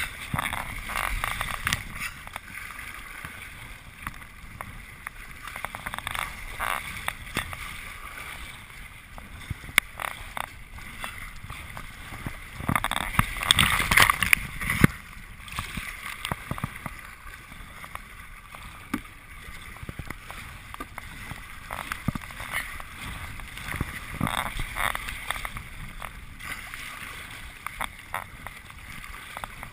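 Kayak paddling: water splashing and rushing with the paddle strokes, with occasional sharp knocks. A louder stretch of splashing comes about halfway through.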